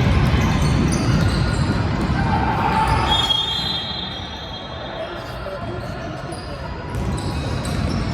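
Basketball game sounds in a gym: a ball bouncing on the court amid echoing crowd chatter, with a brief high note a little over three seconds in.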